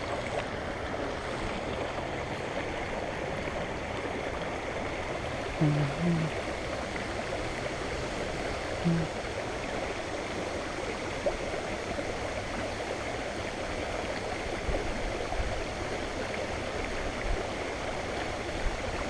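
Creek water rushing steadily over a small rock dam, the creek running full. A couple of brief low sounds break in about a third and halfway through.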